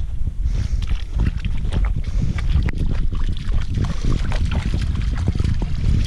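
Steady low rumble of wind on the microphone, with many small crackles and clicks throughout.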